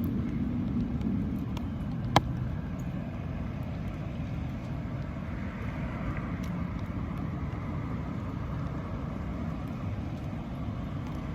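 Steady low outdoor rumble, like distant traffic or wind on the microphone, with one sharp click about two seconds in.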